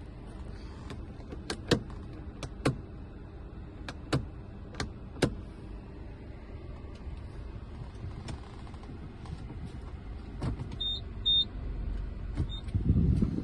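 A series of sharp clicks, several in close pairs, from a car's controls being operated over a steady low hum. Two short high beeps come near the end, then a louder low rumble.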